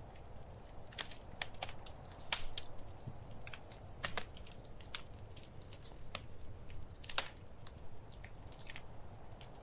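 Wood fire crackling: irregular sharp pops and snaps, a few a second and uneven in strength, over a low steady rumble.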